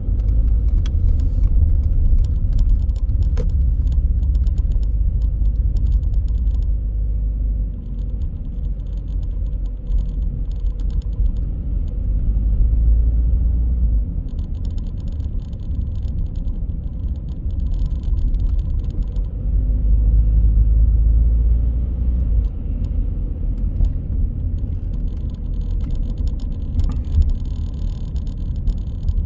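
Car driving: a steady low road and engine rumble that swells and eases a few times, with light rattling ticks over it.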